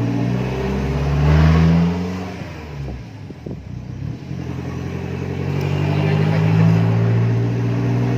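Pickup truck engine pulling under acceleration, its note climbing, easing off about three seconds in, then pulling and climbing again.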